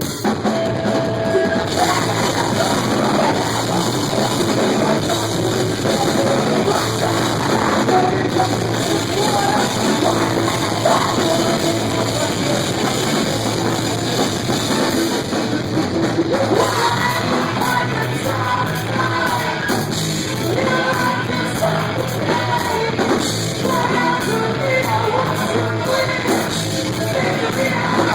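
Live post-hardcore rock band playing at full volume, with distorted guitars, drum kit and singing, as heard through a phone microphone; the band comes in suddenly at the start.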